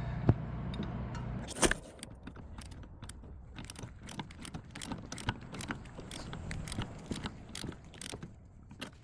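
Metal hand tools and parts clinking and clicking irregularly as they are handled while working on a car's steering knuckle and lower ball joint. A low hum runs for about the first second and a half and stops with one sharp metallic clank.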